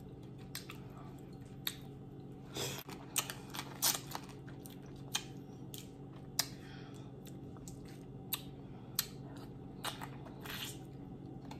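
Close-miked eating of boiled crawfish: chewing and wet mouth sounds with scattered sharp clicks and a few short, louder smacks, over a steady low hum.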